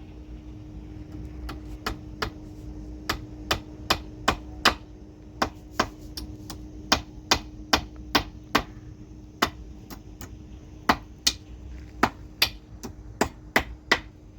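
Hammer striking repeatedly in an uneven rhythm, about two sharp blows a second, over a steady low hum.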